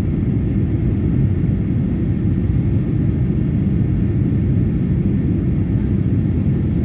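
Airliner passenger-cabin noise on the approach to landing: a steady low rumble of engines and rushing air.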